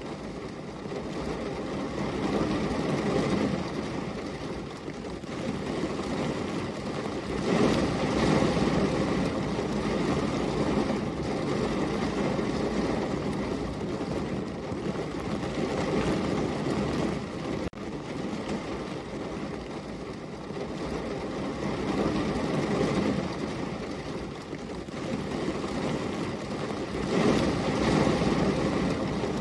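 Steady rain falling, a dense even hiss that swells louder and eases off every few seconds.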